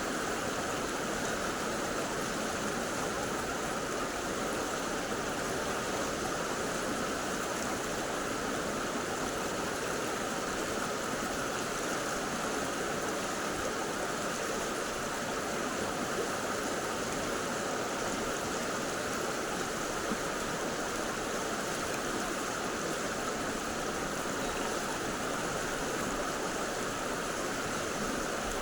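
Mountain stream water rushing over rocks: a steady, unbroken flowing sound.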